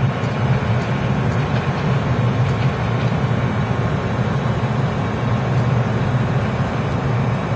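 Korail KTX-1 high-speed train pulling slowly into the station, a steady low running hum with a few faint clicks.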